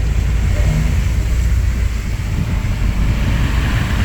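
A car driving on a rain-soaked road, heard from inside the cabin: a steady low rumble of engine and tyres with an even hiss of water and rain over it.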